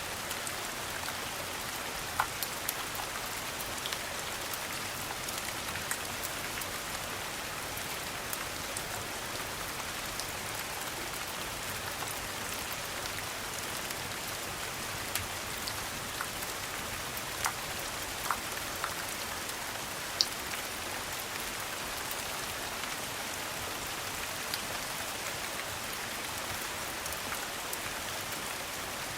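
Steady rain falling, with a fireplace giving scattered sharp crackles and pops, the loudest about two seconds in and again about twenty seconds in.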